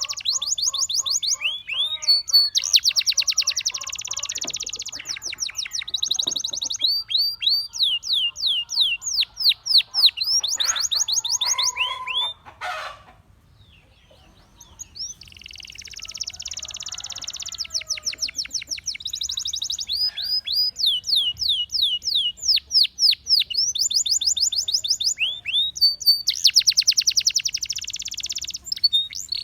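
Gloster canary singing: fast trills and runs of quick falling whistled notes alternating with dense buzzy rolls. The song breaks off briefly a little before halfway, then resumes.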